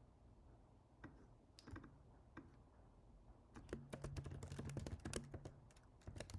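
Typing on a computer keyboard: a few scattered keystrokes, then a quick run of keys lasting about a second and a half past the middle.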